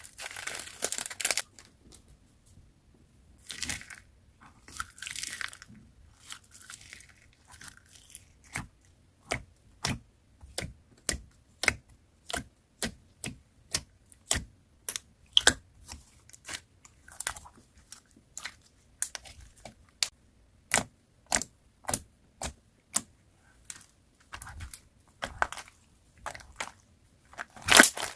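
Slime worked by hand: a few longer crinkling rustles in the first few seconds, then a steady run of short, sharp pops and clicks, about one and a half a second.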